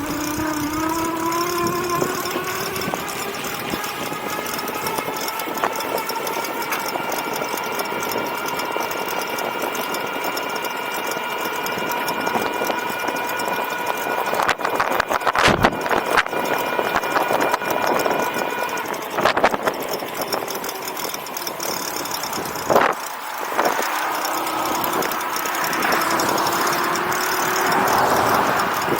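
Electric bike motor whining, rising in pitch as it speeds up and then holding a steady pitch, over wind and tyre noise. A few sharp knocks come past the middle, the whine drops out for a few seconds, then rises again near the end.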